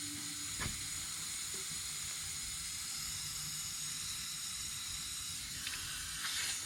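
Air hissing steadily out of a motorcycle tire's valve stem as the tire is let down to completely flat.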